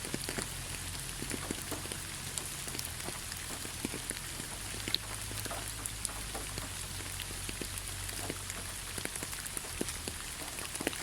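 Steady rain falling on a surface, an even hiss with many separate drops ticking irregularly, over a low steady rumble.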